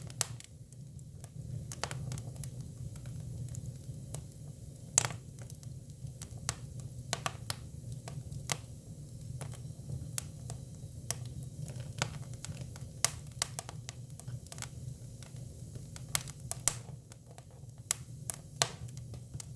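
Hinoki cypress firewood burning: irregular sharp pops and crackles, a few of them louder snaps, over a steady low rumble of the fire.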